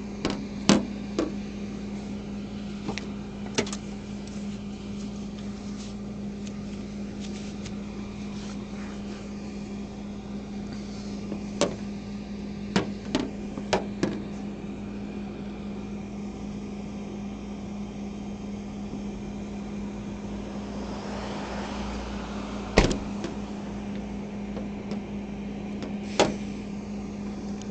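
A steady low mechanical hum with scattered sharp clicks and knocks, the loudest about three-quarters of the way through.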